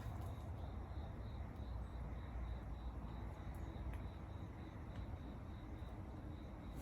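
Quiet outdoor night-time ambience: a low steady rumble under an insect chirping in an even, high-pitched pulse of about three chirps a second, with a few faint clicks.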